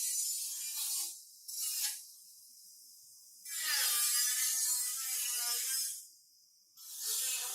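A handheld power tool running in four separate bursts, the second short, with a hissing, high-pitched sound and quieter gaps between.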